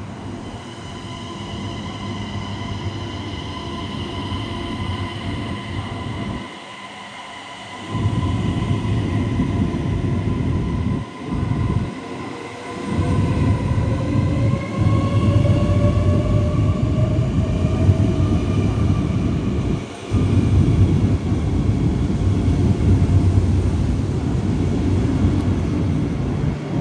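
CRH1A high-speed electric multiple unit pulling out of a station. A heavy low rumble of wheels and running gear swells up, with brief dips. Over it, the traction motors whine, rising in pitch as the train gathers speed.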